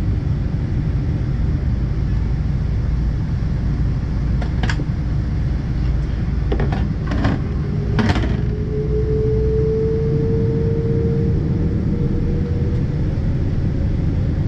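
Cabin noise inside a Boeing 777-200ER on the ground: a steady low rumble from the engines and airframe. A few light knocks or clicks sound about four and a half to eight seconds in, then a steady mid-pitched whine holds for about four seconds.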